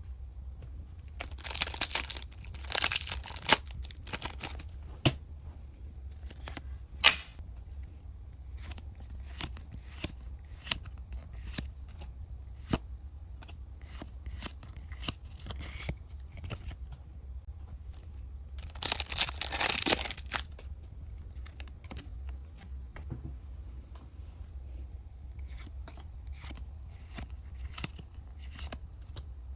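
Pokémon trading-card booster pack wrappers being torn open and crinkled, with two longer stretches of tearing, one a couple of seconds in and one about two-thirds of the way through. Short clicks and rustles of handled cards and wrapper come in between.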